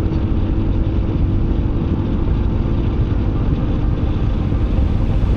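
Motorcycle on the move at a steady speed: engine running under a dense rush of wind noise on the onboard microphone, with a faint steady hum.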